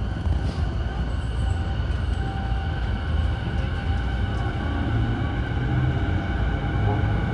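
Running noise of a JR East E217-series electric train heard from on board: a steady rumble of wheels on rail, with faint steady motor and inverter tones above it.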